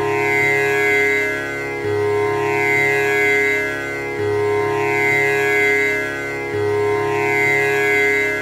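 Tanpura drone: its strings are plucked in a repeating cycle that starts over roughly every two and a half seconds. Each note rings on into the next, so the sound never breaks.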